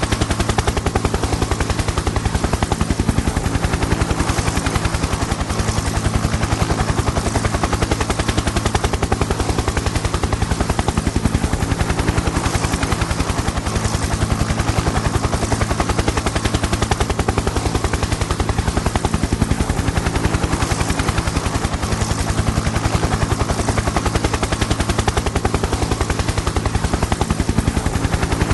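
Helicopter in flight: rapid, steady rotor chop over a low, steady engine and turbine drone.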